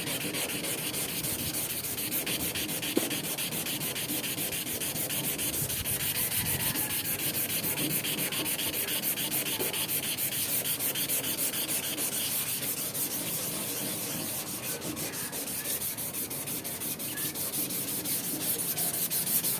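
Rapid, continuous back-and-forth scrubbing with an abrasive on the stainless steel of a kitchen range hood, trying to rub out a stain that will not polish away.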